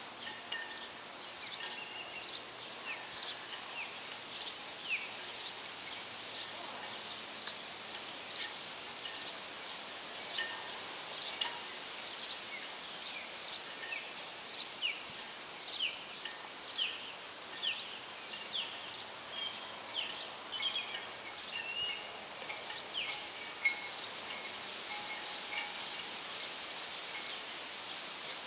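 Bird chirping: a long series of short, high, falling chirps, one or two a second, over faint steady outdoor background noise.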